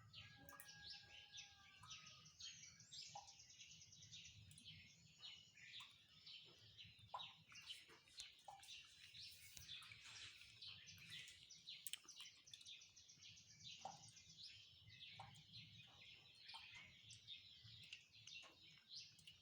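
A faint chorus of many small birds singing and chirping, with rapid, overlapping calls and trills.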